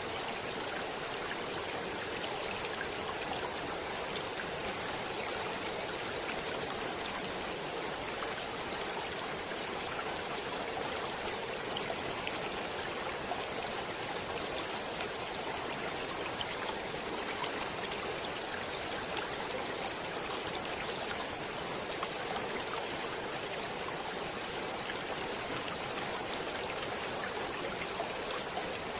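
Running water of a stream, a steady, even rush with small trickles and splashes flecked through it.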